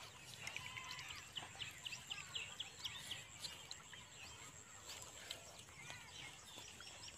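Small birds chirping in many short, quick calls over faint outdoor ambience, with a faint steady high tone underneath.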